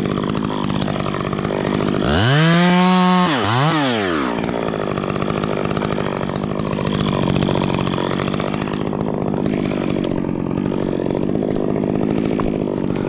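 Chainsaw idling, revved up high about two seconds in, with a quick second blip right after, then dropping back to idle.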